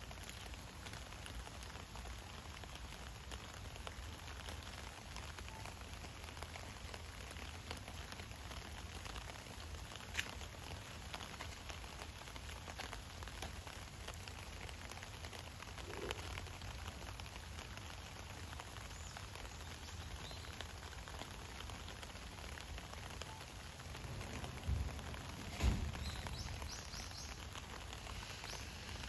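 Light rain pattering steadily, made of many fine ticks over a low rumble. Two low thumps come close together a few seconds before the end.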